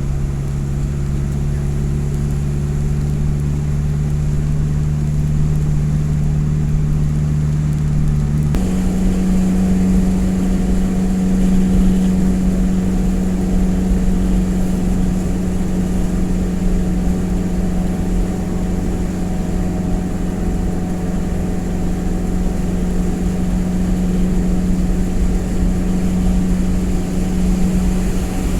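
Truck engine idling with a steady hum. About eight seconds in, the hum shifts abruptly to a slightly higher steady pitch.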